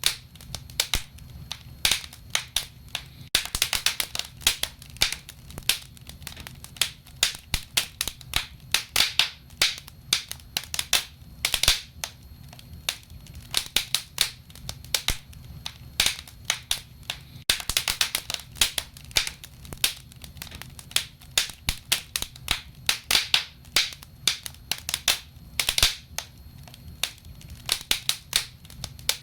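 Wood fire crackling, with dense irregular sharp pops and snaps of burning logs, several a second, over a steady low rumble.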